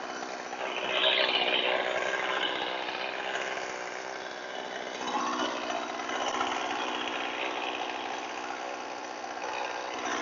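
Harbor Freight electric chainsaw sharpener running, its grinding wheel on a saw chain's cutters. The grinding noise swells about a second in and again about five seconds in.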